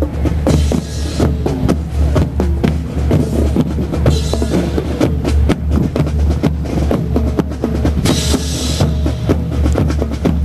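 Marching band playing, driven by snare and bass drums, with cymbal crashes about four and eight seconds in.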